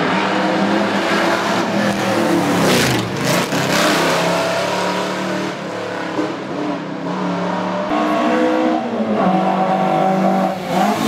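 Classic racing car engine running hard, its pitch dropping and climbing again a few times as it revs through the gears.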